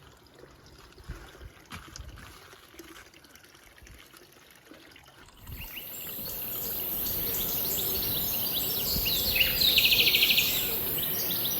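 Faint knocks for the first five seconds or so, then steady running water starts abruptly, with small birds chirping over it and a rapid bird trill near the end.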